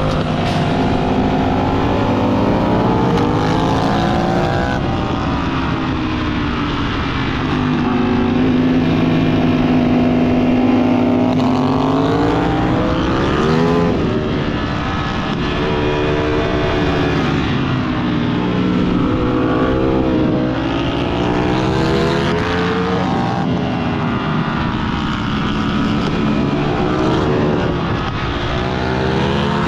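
Ducati Panigale V4 S's V4 engine heard from on board the bike. It rises in pitch under acceleration and drops back at each shift or roll-off, again and again.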